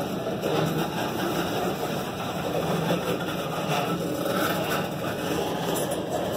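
Freight train of loaded tank cars rolling past at a grade crossing: a steady rumble of steel wheels on the rails.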